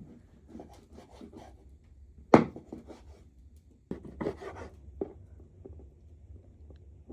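Scattered knocks and rubbing of things being handled, with one sharp knock about two and a half seconds in and a short run of knocks a little later, over a low steady hum.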